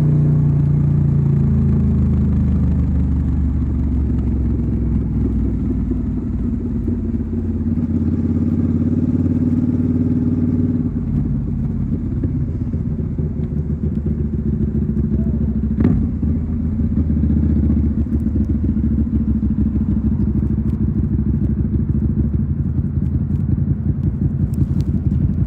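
Suzuki SV650's V-twin engine running under way on the road. Its pitch drops near the start, holds steady, then settles about halfway through into a lower, choppier beat. There is one sharp click about 16 seconds in.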